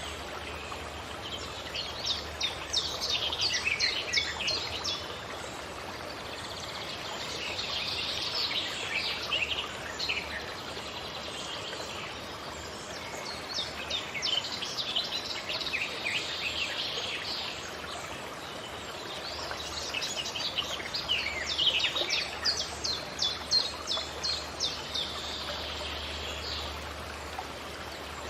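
Songbirds singing in forest: bouts of rapid, high chirping phrases every few seconds over a steady background hiss of running water or wind.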